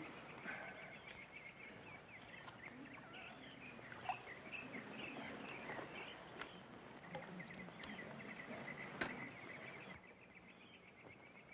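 Faint marsh ambience with scattered bird chirps and a few soft knocks, fading to near silence near the end.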